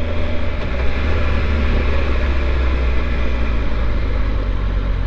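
Triumph Tiger 1200 motorcycle running at a steady speed, its engine's low drone mixed with steady wind noise on the rider-mounted microphone.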